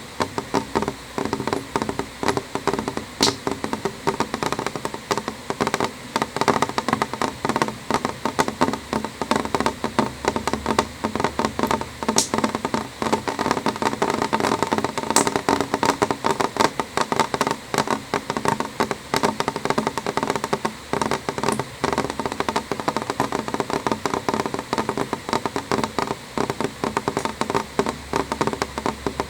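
Rain falling on a window pane: a dense, steady patter of drops tapping on the glass, with a few sharper ticks here and there.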